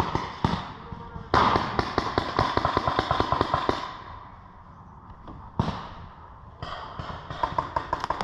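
Paintball markers firing rapid strings of shots, about ten a second: a long string about a second in, a single sharp crack a little past the middle, and another string near the end.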